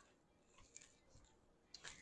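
Near silence in a kitchen, with a few faint, short clicks, the clearest just before the end.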